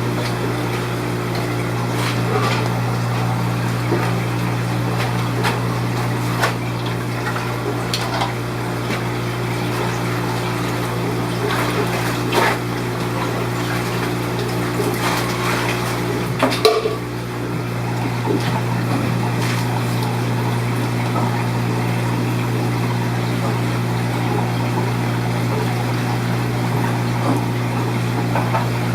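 Steady low hum of aquarium pumps and filtration, with scattered small water splashes and clinks of containers being handled, and a louder knock about sixteen seconds in.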